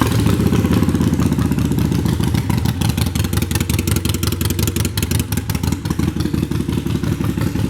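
Harley-Davidson Sportster Iron 883's air-cooled V-twin running steadily at idle through aftermarket Vance & Hines Short Shots exhaust, loud and pulsing, not stock-sounding.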